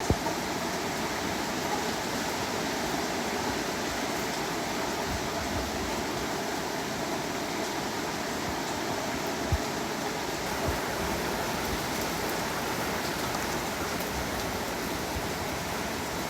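Steady rushing of heavy hurricane rain and wind, with a brief low thump about halfway through.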